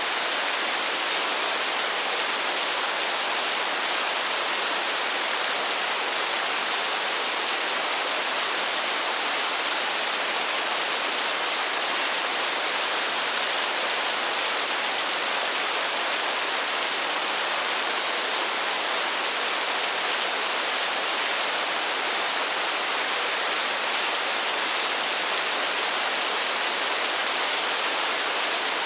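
Steady rainfall: a dense, even hiss with no single drops standing out and no change in strength.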